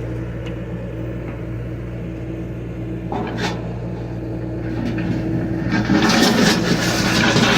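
John Deere excavator's diesel engine running steadily under work. About six seconds in, a louder, rough grinding noise joins it.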